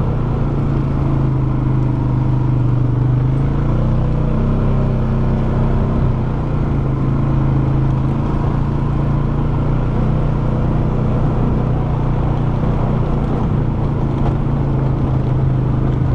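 Polaris Sportsman 570 ATV's single-cylinder engine running steadily while riding, its pitch rising and falling slightly with the throttle.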